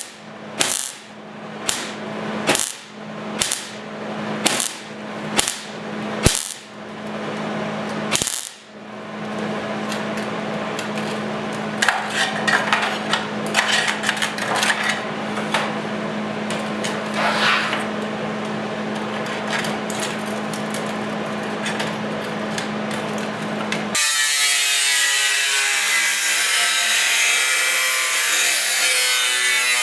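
Power grinder running with a steady motor hum, cleaning rust off a steel motorcycle seat pan to prepare it for welding. It bites into the metal in rhythmic surges, about one and a half a second, for the first eight seconds, then grinds steadily. About 24 s in, the hum gives way abruptly to a louder, bright, harsh hiss.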